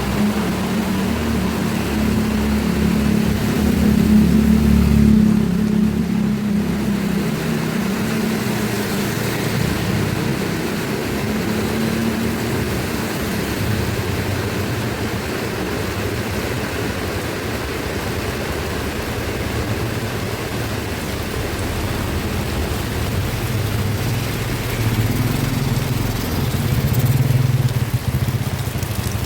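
Heavy rain falling with a motor vehicle's engine humming close by, its low drone shifting lower in pitch partway through and peaking about five seconds in and again near the end.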